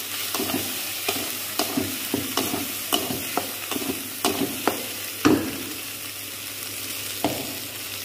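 Onion-tomato masala sizzling in oil in a kadai while a metal spatula scrapes and knocks against the pan, two or three strokes a second. The stirring eases off about five seconds in, leaving mostly the sizzle, with one more stroke near the end.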